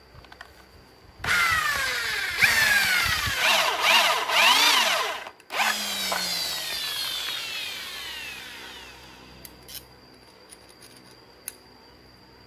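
Electric drill drilling an 8 mm hole in a steel hacksaw blade, its speed rising and falling as the trigger is worked. It stops briefly about five seconds in, then runs again and winds down over a few seconds, falling in pitch.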